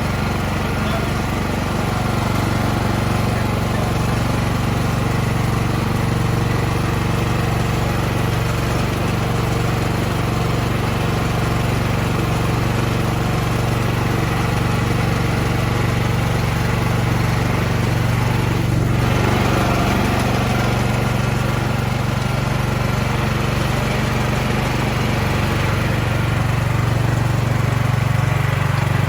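Gas snow blower engine running steadily, just after a primed, electric-start startup.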